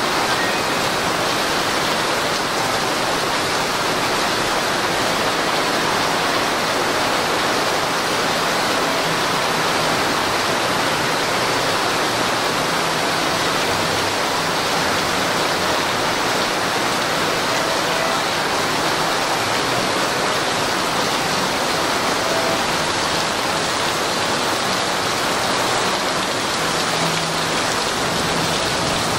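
Torrential downpour: heavy rain pouring steadily onto paving and hard surfaces in an even, unbroken rush.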